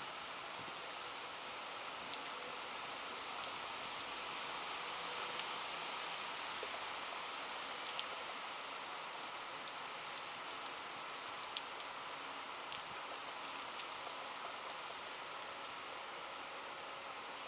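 Steady rain falling during a thunderstorm, an even hiss with many sharp drop ticks scattered through it and no thunder.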